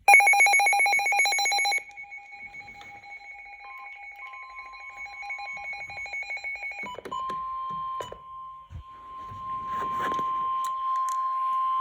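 NOAA weather radio sounding its alert: a loud, fast-pulsing buzzy beep for the first couple of seconds, fainter pulsing after it, then from about seven seconds in a steady single tone near 1 kHz, the National Weather Service's warning alarm tone. A few clicks and a brief rustle come in the middle.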